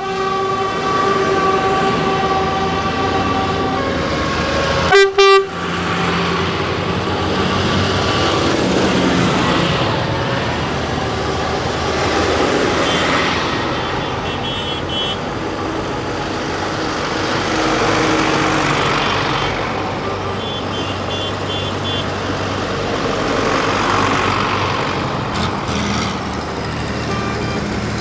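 A procession of tractors driving past, their engines rising and falling as each goes by. A horn sounds a held note for the first few seconds and gives a short loud blast about five seconds in, and a few faint quick beeps come through in the middle.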